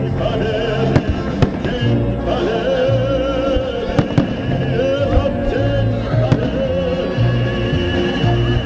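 Festive fireworks salute going off, a handful of sharp bangs scattered through, over loud music with a sung melody.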